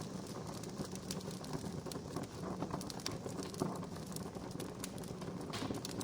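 Wood fire crackling: irregular sharp pops and snaps over a steady low rushing hiss.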